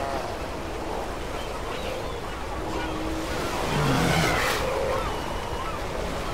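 Steller sea lion colony calling over surf and wind: several short pitched calls from different animals over a steady wash of waves, with a louder surge and a deeper call about four seconds in.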